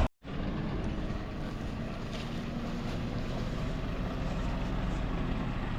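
Heavy diesel machinery engine running steadily, with some wind on the microphone; the sound cuts in just after a brief dropout at the very start.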